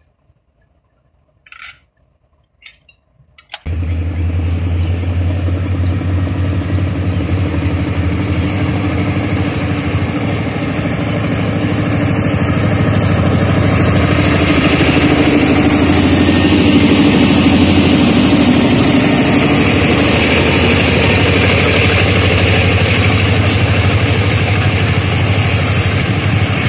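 Diesel locomotive passing close by with its engine droning steadily, while the wheel and rail noise of its passenger coaches grows louder from about ten seconds in. The first few seconds are near silence with a few brief faint sounds, then the train sound starts abruptly.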